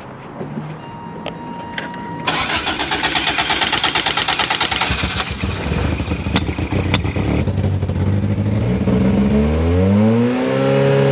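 Car engine with a freshly installed motor and exhaust being cranked on the starter for a few seconds, then catching and running, with a rev that rises and holds near the end.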